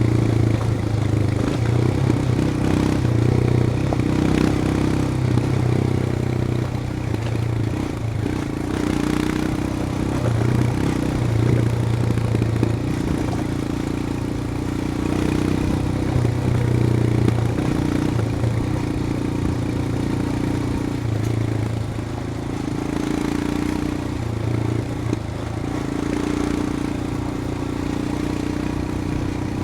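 Royal Enfield Himalayan's single-cylinder engine running while the motorcycle is ridden, its note shifting up and down with the throttle.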